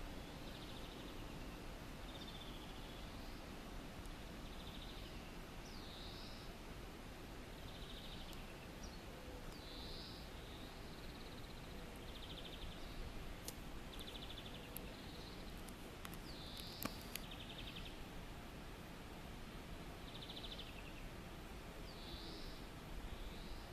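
Faint steady outdoor background noise with a small bird calling over and over, a short high chirp every second or two, some of them ending in a quick buzzy trill.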